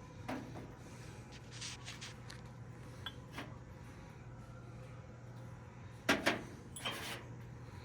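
Scattered knocks and clacks of objects being handled and set down, the loudest a quick pair about six seconds in and another about seven seconds in, over a steady electrical hum.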